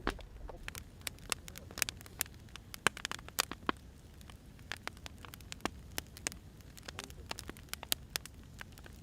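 Wood fire crackling: irregular sharp pops and snaps, several a second, over a low steady rumble. The loudest pop comes about three seconds in.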